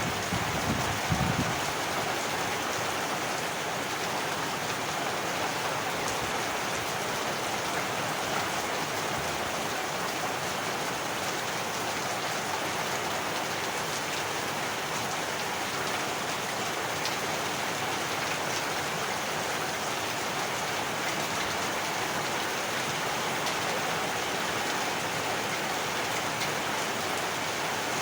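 Heavy rain falling steadily. There is a brief low rumble about a second in.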